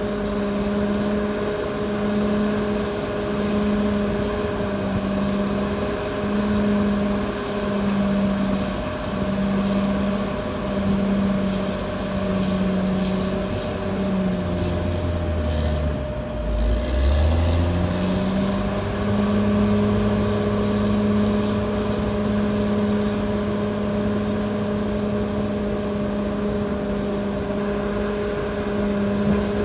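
Caterpillar D6R XL bulldozer's diesel engine running steadily with a regular pulsing drone. About halfway, the engine note drops steeply for a couple of seconds, then climbs back up.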